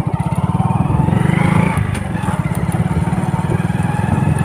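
Motorcycle engine running with a rapid, even firing pulse, revving up about a second in.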